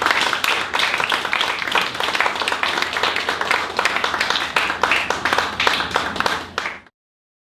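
Audience applauding, a dense patter of many hands clapping, which stops abruptly near the end.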